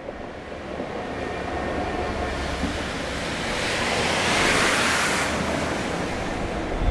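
Class 66 diesel locomotives and tank wagons of a railhead treatment train passing close below: a low rumble under a rushing hiss that swells to its loudest about two-thirds of the way through, as the wagons and the rear locomotive go by.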